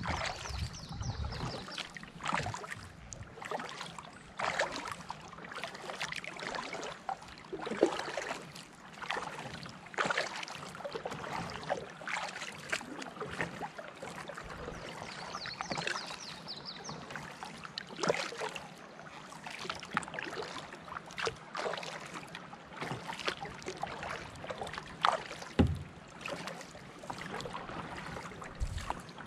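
Kayak paddle strokes: the blades dip and splash in the creek water about once every one to two seconds, with dripping between strokes and a dull low knock about three-quarters of the way through.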